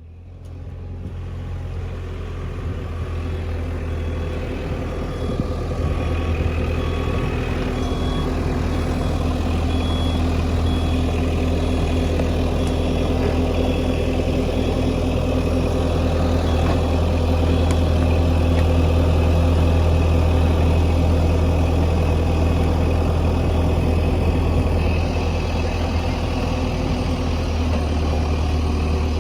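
A large engine running steadily. It gets louder over the first few seconds and then holds. For about ten seconds in the middle, a high beep repeats about once a second, as from a warning alarm.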